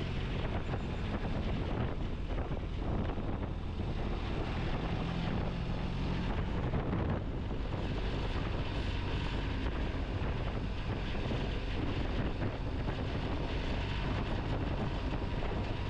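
A BMW motorcycle underway at road speed: steady wind rush over the microphone, with the engine's low hum running underneath.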